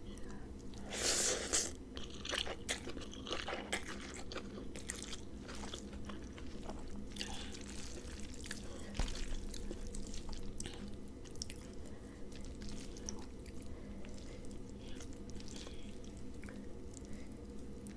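A person chewing and crunching a mouthful of spicy rice-noodle salad with raw vegetables, close-miked, with wet mouth clicks. A louder crunch comes about a second in. A faint steady hum lies underneath.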